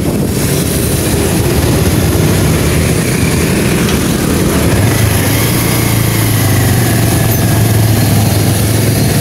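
Motor vehicle engine running amid loud, steady road and wind noise. A low engine hum comes up more strongly about halfway through.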